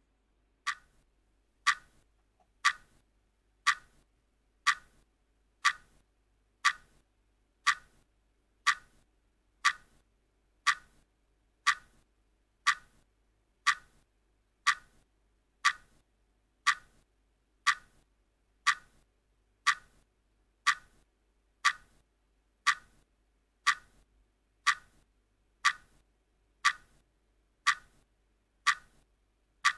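Countdown timer's clock-tick sound running, one short, sharp tick every second, evenly, as the timer counts down.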